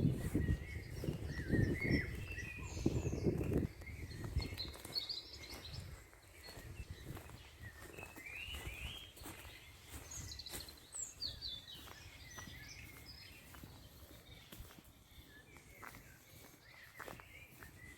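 Small birds chirping and calling on and off, with a loud low rumble over the first few seconds and faint footstep-like clicks.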